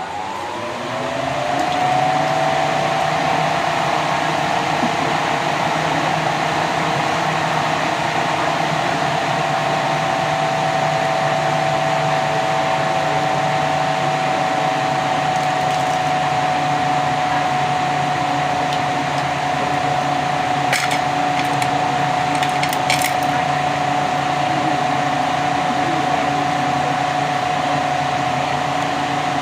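A small electric motor spins up over about two seconds, then runs steadily with a whine, with a few faint clicks about twenty seconds in.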